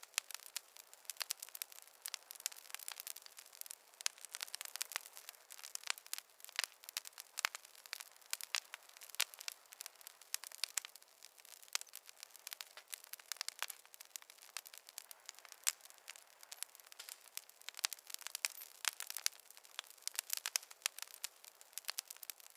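Wood fire crackling: a dense, irregular run of sharp pops and snaps over a faint hiss, with no low rumble.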